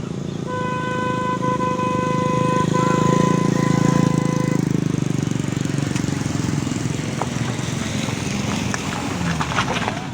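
A vehicle horn sounding one steady note for about four seconds, broken by a few short gaps, over the low rumble of engines in traffic.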